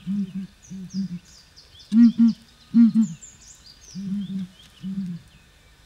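A bird gives low, hollow hoots in pairs and threes, about six groups spaced roughly a second apart. Faint high twittering of small birds runs above it.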